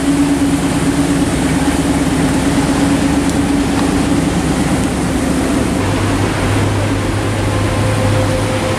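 Cars' engines running at low speed over a constant wash of surf and rain. A steady engine hum from a lifted Chevy square-body pickup fades by about four seconds in, and about six seconds in a deeper, steady low rumble comes in as a 1955 Chevy Bel Air rolls along the boardwalk.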